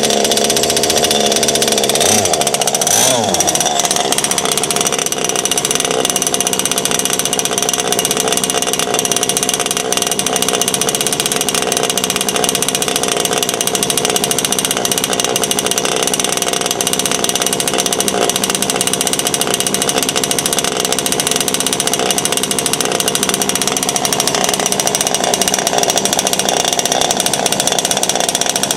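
Two-stroke gas engine of an RC boat running at high revs through a custom water-cooled quad exhaust. Its pitch wavers about three seconds in, then settles into a steady, high drone.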